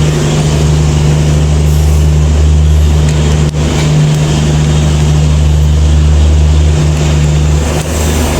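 Railway diesel engine running steadily, a deep, even hum, typical of a diesel shunting locomotive.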